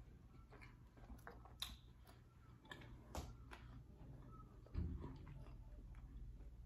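Faint close-miked chewing with the mouth closed: soft wet mouth clicks every second or so, and a soft low thump about five seconds in.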